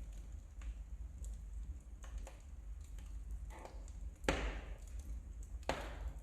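Wood fire crackling in a fireplace, with scattered sharp pops. The loudest pop comes about four seconds in and another near the end, over a steady low rumble.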